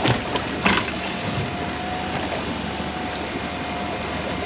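Small fishing boat's machinery running steadily with a faint constant whine, while a net is hauled aboard. Two sharp knocks about half a second apart just at the start.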